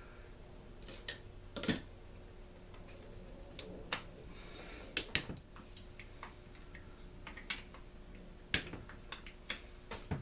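Irregular sharp clicks and light knocks of hand tools and small plastic and metal parts being handled while a leaf blower is taken apart, about a dozen in all, with the loudest pair about five seconds in.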